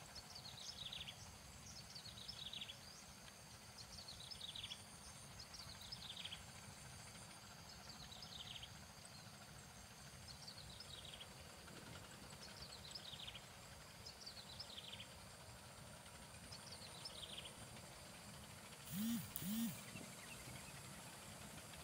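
A bird repeating a short, high, falling call about every one and a half to two seconds over a faint low rumble, with two short louder sounds in quick succession near the end.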